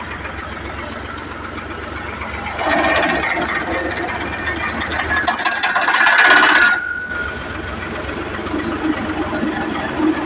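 Al-Ghazi tractor's engine running steadily at idle. In the middle a loud mechanical rattle, with a high squeal near its end, runs for about four seconds and cuts off sharply.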